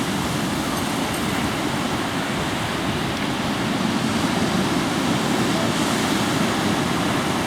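Ocean surf washing on the beach: a steady rushing noise without a break.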